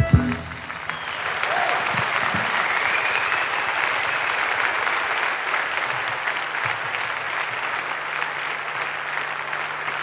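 Concert audience applauding steadily as the band's final hit cuts off at the very start, with a whistle from the crowd a few seconds in.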